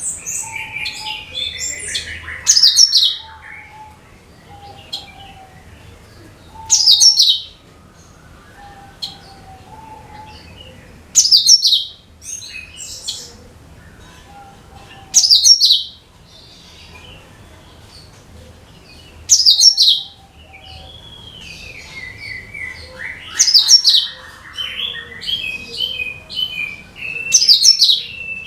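Cucak kinoi song played as a lure for other songbirds: a loud, rapid, high chattering phrase repeated about every four seconds, with softer chirps, warbling and faint short whistles in between.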